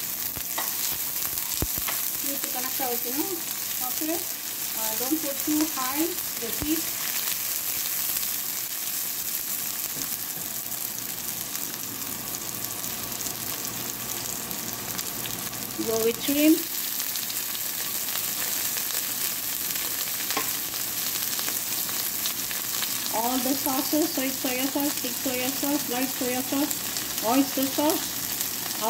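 Sliced onion and chopped garlic sizzling in hot oil in a frying pan, stirred now and then with a plastic spatula. Short pitched, wavering sounds come in a few stretches, about two seconds in, around the middle and again near the end.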